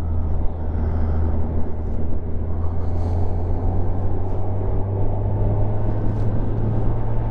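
Kawasaki Ninja 1000 motorcycle engine running at a steady cruise, a constant low drone, with wind rushing past the helmet.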